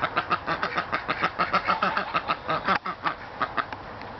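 Birds giving a rapid run of short calls, about seven a second, that breaks off into a few scattered calls near the end.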